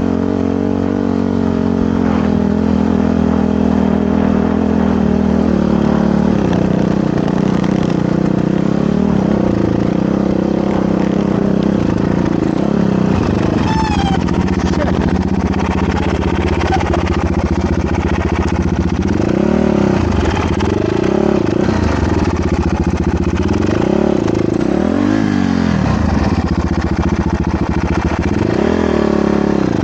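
Motorcycle engine running while riding. Its pitch holds fairly steady at first, then rises and falls several times with the throttle in the second half.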